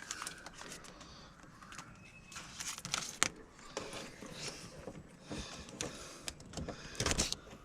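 A wiring harness being handled and fed through a vehicle cab: scattered rustling and sharp plastic and metal clicks, busiest about three seconds in and again near the end.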